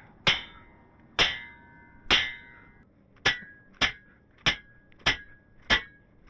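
Hammer blows on a heated steel shop crane leg tube and the tapered square mandrel driven into it to straighten the buckle. Eight sharp strikes with a short metallic ring after each, about a second apart at first, then a little quicker.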